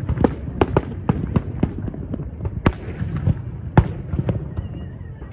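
Aerial firework shells bursting: a rapid, irregular string of bangs over a steady rumble, the sharpest about halfway through and again a second later.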